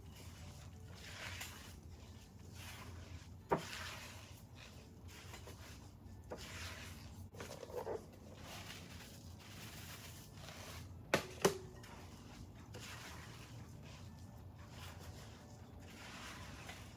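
Silicone spatula stirring and scraping stiff oatmeal cookie dough in a glass mixing bowl, being mixed by hand; faint, with soft scraping and sharp knocks of the spatula against the bowl, once about three and a half seconds in and twice in quick succession about eleven seconds in.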